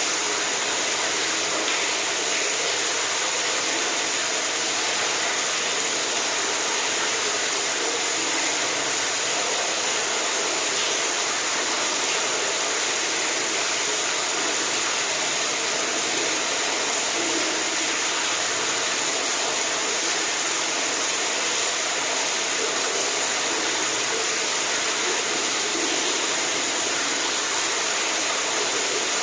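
Running water rushing steadily, an even, unbroken sound.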